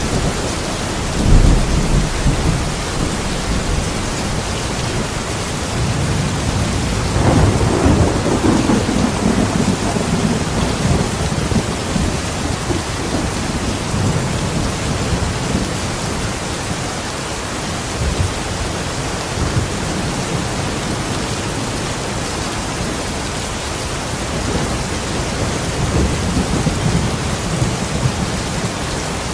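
Steady heavy rain with rolls of thunder: low rumbles swell about a second in, again from about seven to ten seconds, and once more near the end.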